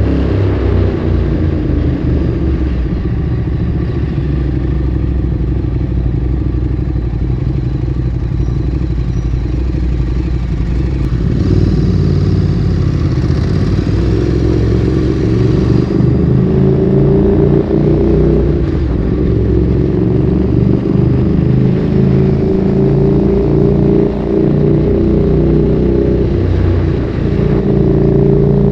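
Ducati Streetfighter 848's L-twin engine through a Termignoni exhaust, under way on the road. The engine note rises and falls several times as the bike accelerates, holds speed and slows.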